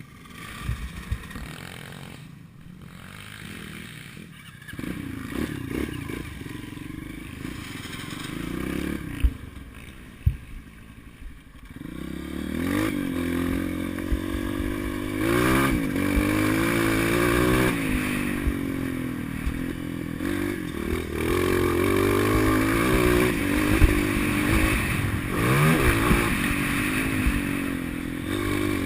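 Motocross motorcycle engine, quiet at first with scattered clatter and knocks. From about twelve seconds in it gets louder and revs up and down repeatedly as the bike is ridden.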